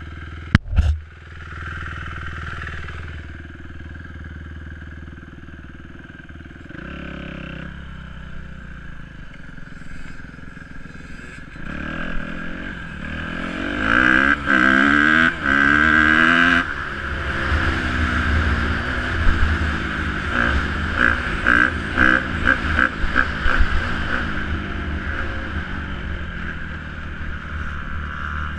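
Dirt bike engine running, with a sharp knock near the start. About twelve seconds in, the revs climb in several rises and the engine is at its loudest, then it drops back to a rougher running note with some clatter.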